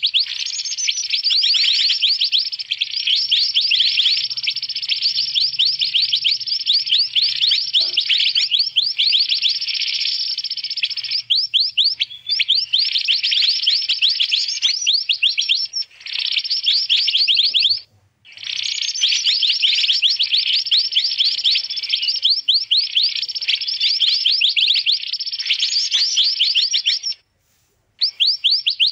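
Mantenan bird calls played as a bird-catcher's lure recording: a busy, continuous stream of rapid high chirps and twitters, breaking off briefly twice.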